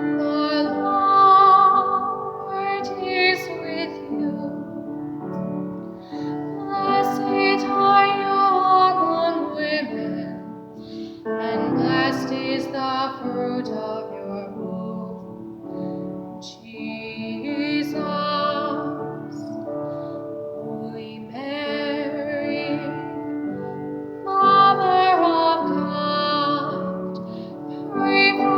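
A woman's solo voice singing a slow hymn with vibrato, in phrases a few seconds long, over a soft piano accompaniment.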